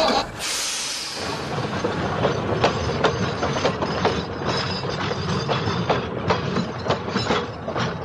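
Train rolling along the track, its wheels clicking and clattering irregularly over the rail joints with a steady running rumble underneath.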